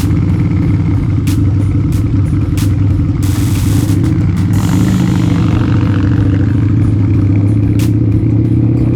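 Harley-Davidson V-Rod's V-twin engine running at a steady pitch while riding, with a rush of noise for about a second some three seconds in.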